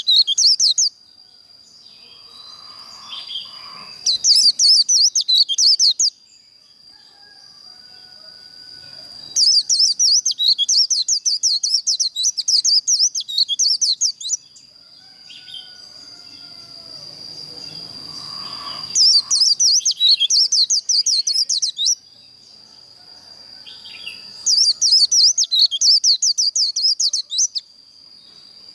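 White-eye singing its fast, rapid-fire 'líu' fighting song in five bursts of one to five seconds each, over a steady thin high-pitched whine.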